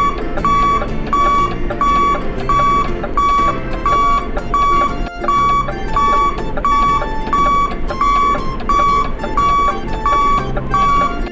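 Repetitive electronic beeping tune: a short high beep note repeated about one and a half times a second over a looping rhythm.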